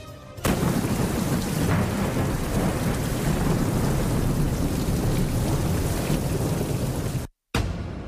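Heavy rain pouring with a deep rumble of thunder, starting abruptly about half a second in, with a brief total dropout near the end.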